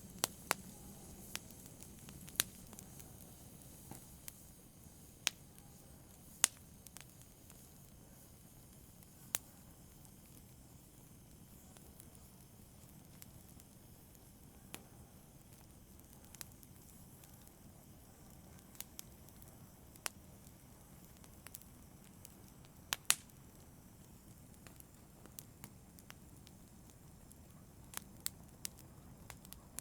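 Wood fire in a fireplace crackling: irregular sharp pops scattered over a faint low hiss, with a louder double pop about three quarters of the way through.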